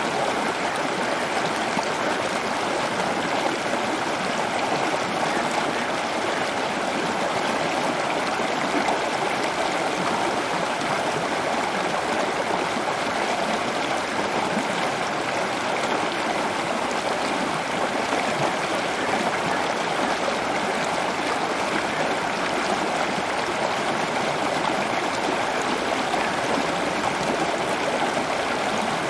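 Steady running water, an even rushing trickle that does not change.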